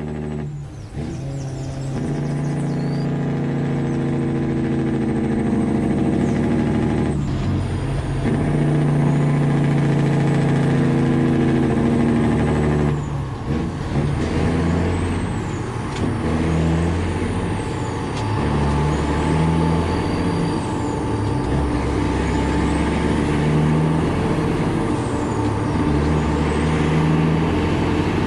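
Peterbilt semi-truck's diesel engine running loud under load, with the sound breaking and dropping in pitch three times: about a second in, around seven seconds and around thirteen seconds.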